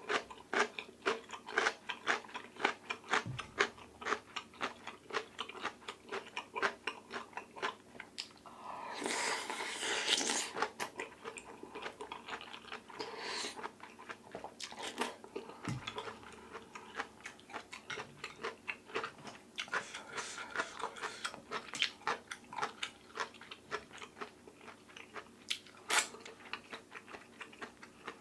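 Close-up mouth sounds of a person eating oyster rice soup with radish kimchi: rapid crisp chewing crunches several times a second, with a longer, louder noisy stretch about nine seconds in.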